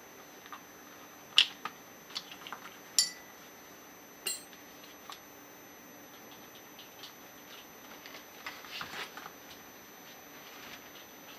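Small metal parts and tools clinking and tapping on a workbench while a scuba regulator first stage is being taken apart: three sharp clinks in the first half, then a run of lighter clicks.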